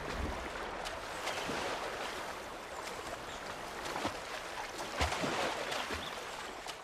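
River water running, a steady rushing hiss with a few faint clicks and splashes.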